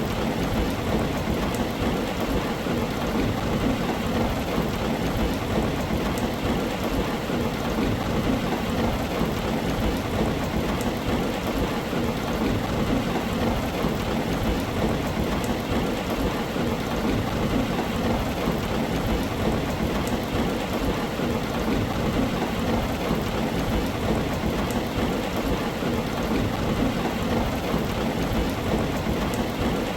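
Heavy rain falling steadily on a tin roof: a constant, even wash of patter with no breaks or distinct strikes.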